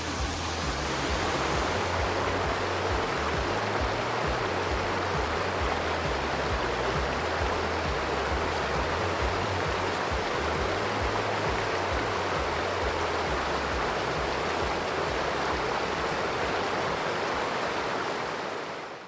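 Small hot-spring waterfall splashing steadily into its pool, a constant rush of falling water that fades out near the end.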